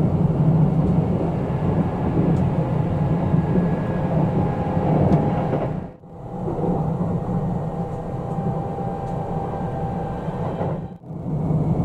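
Kintetsu 23000 series Ise-Shima Liner electric express running at speed, heard from inside the passenger car: a steady rumble of wheels and track with a faint steady whine. The sound drops away briefly twice, about halfway through and near the end.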